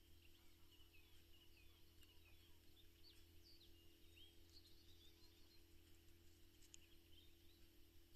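Near silence: faint, scattered bird chirps and twitters over a steady low hum.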